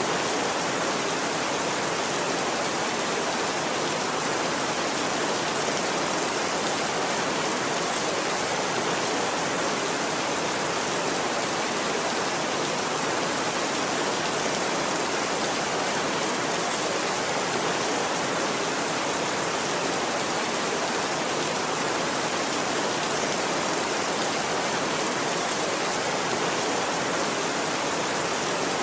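Steady, heavy rain falling: an even, unbroken hiss with no thunder and no separate drops standing out.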